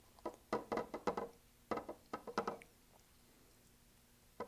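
Paintbrush dabbing and scrubbing acrylic paint onto a stretched canvas: a run of short, uneven taps for the first couple of seconds, a pause, then more taps near the end.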